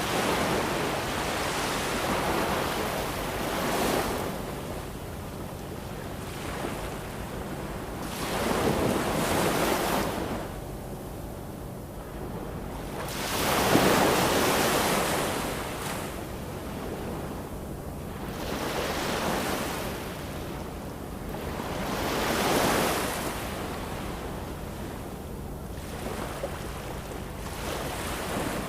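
Ocean waves breaking and washing on the shore, each wave swelling and fading every four to five seconds, the biggest about halfway through.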